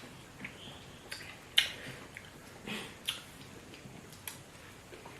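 Quiet chewing and wet mouth smacks from eating fufu with spinach soup, as a handful of short, scattered clicks.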